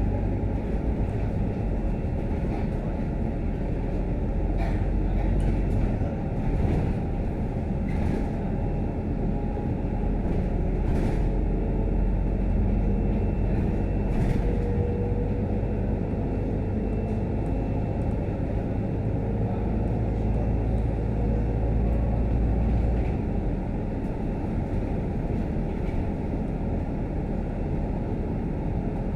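Scania K310UD double-decker bus heard from inside while it is being driven: a steady low engine and road rumble, with a few short rattles and knocks from the body. The deepest part of the drone eases about three-quarters of the way through.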